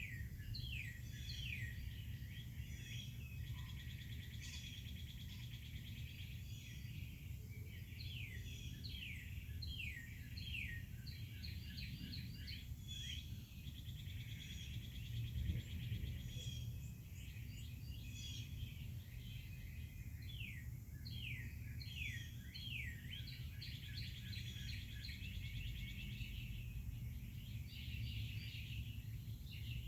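Several songbirds singing and chirping: repeated quick downward-sweeping notes and rapid trills, over a steady low rumble. A brief louder bump comes about halfway through.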